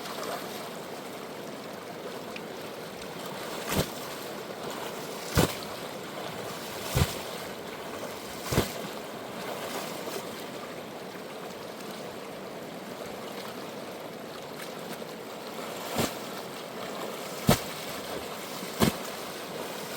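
Steady rush of flowing river water, with sharp knocks every second or two, four in a row in the first half and three more near the end.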